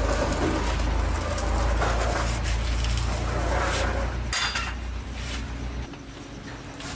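A steady low machine hum that drops about four seconds in and dies away near six seconds, with a few sharp metallic clinks like tools on metal.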